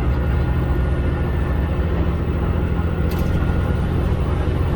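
HOT7000-series diesel railcar running, heard from inside the train: a steady low rumble of the diesel engine and wheels on the rails, with a faint click about three seconds in.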